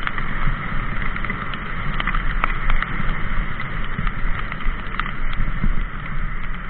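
Mountain bike riding a wet trail: a steady rumble of wind and tyres with frequent rattling clicks from the bike.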